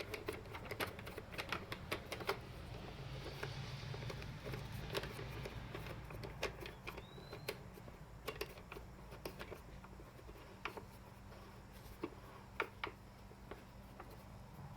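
Irregular light metallic clicks and taps of an Allen wrench working a seat bolt on a Yamaha Virago 750 as the bolt is tightened.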